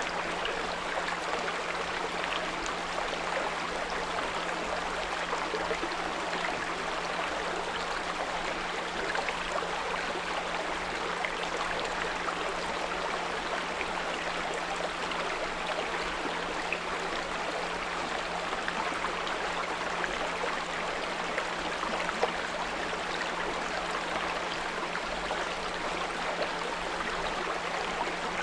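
A small brook running and babbling steadily over stones, with a steady low 174 Hz pure tone mixed in underneath.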